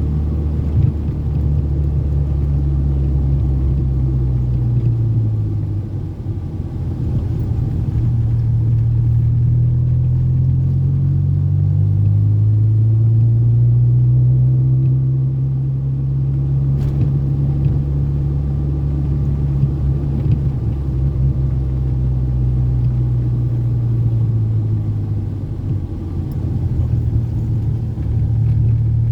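Toyota Corolla AE80-series sedan driven at speed: a steady engine drone and road rumble. The engine pitch dips about five seconds in, then climbs again, and sags and rises once more near the end as the car eases off and accelerates.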